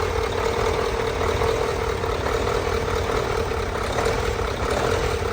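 Rebuilt 12-litre Mercedes-Benz OM501 V8 diesel engine idling steadily.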